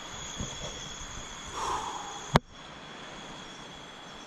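Rainforest background with a steady, high-pitched insect drone, a short sound a little before halfway, and a single sharp click about halfway through where the recording cuts.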